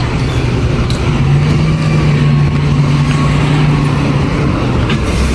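Heavy diesel engine of road construction machinery running, picking up speed about a second in and easing back near the end.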